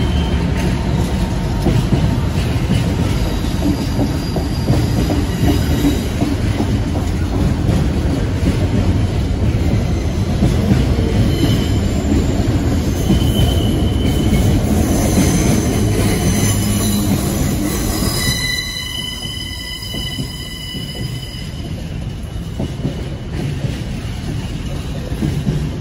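A container freight train's wagons passing at speed, their wheels on the rails making a steady heavy rumble. From about halfway through, a high-pitched wheel squeal rises over it, in several thin tones, and fades out a few seconds before the end. The rumble eases slightly about two-thirds of the way in.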